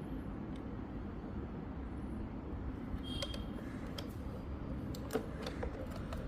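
Steady low background rumble with a few light clicks and taps in the second half, from small hand work.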